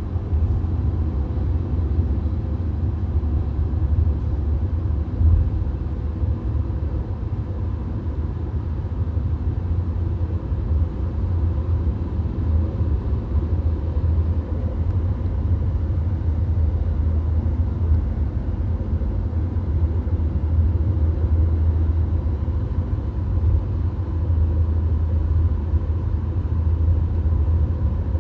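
VW Golf driving at motorway speed, heard from inside the cabin: a steady low rumble of tyre, road and engine noise with a faint steady hum, without change.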